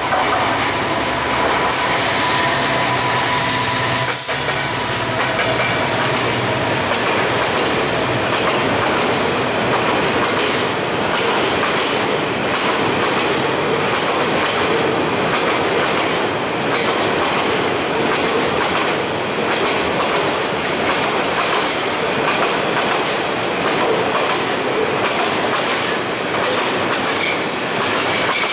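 EMD diesel-electric locomotive running as it passes in the first few seconds, then a long train of loaded container flatcars rolling by: steady wheel-on-rail noise with a rhythmic clickety-clack of wheels over the rail joints.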